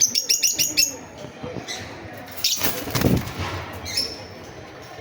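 Birds chirping: a quick run of high chirps at the start and another single chirp near the end, with a short burst of rustling noise around the middle.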